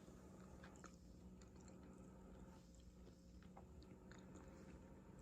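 Near silence: faint room tone with a low steady hum and a few soft scattered clicks.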